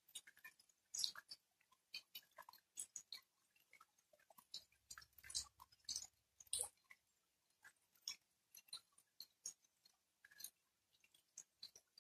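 Light rain: sparse, irregular drops tapping and splashing close by, several a second, with almost no steady hiss between them. A faint low rumble comes up briefly about halfway through.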